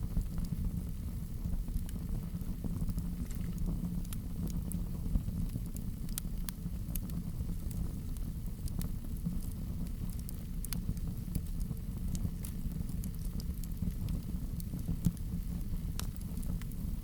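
Fire burning in a fireplace: a steady low rumble of flames with irregular sharp crackles and pops scattered through it.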